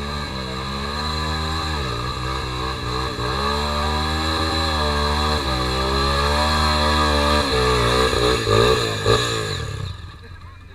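Honda Tornado 250 trail motorcycle's single-cylinder engine running under load, the revs swinging up and down over and over as the throttle is worked. The engine sound drops away sharply near the end.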